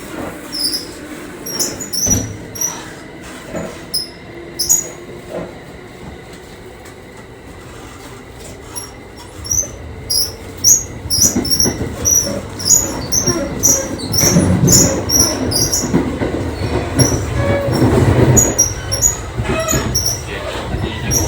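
JR 681-series electric train running, heard from inside a car's vestibule: a low rumble that grows louder about halfway through, with many short high-pitched squeaks and clicks scattered through it.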